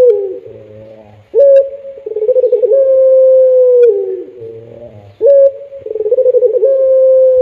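Puter pelung turtle dove cooing: long, held, low coos that drop in pitch at the end. One coo tails off just after the start, and two more begin about a second in and about five seconds in.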